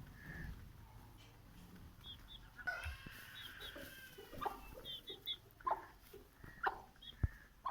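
Aseel chickens clucking, with one longer drawn-out call about three seconds in and short high chirps scattered through.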